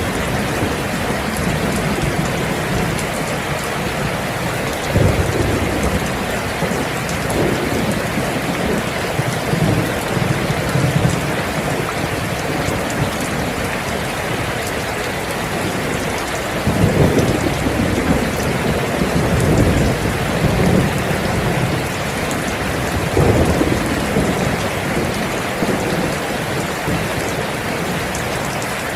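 Steady rain falling, with several low rolls of thunder, the strongest about 17 seconds in.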